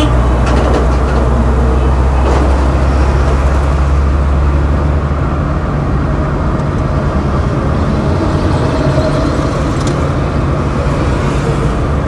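Road traffic noise: motor vehicles running past in a steady wash, with a deep engine rumble that eases off about five seconds in.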